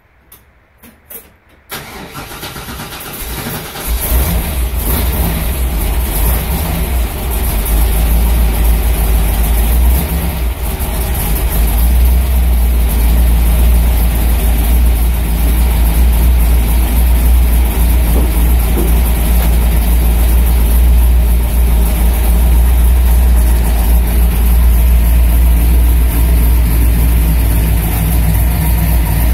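Chevrolet 409 V8 in a 1961 Impala cold-started: a few clicks, then the engine catches about two seconds in, comes up over the next couple of seconds and settles into a steady idle.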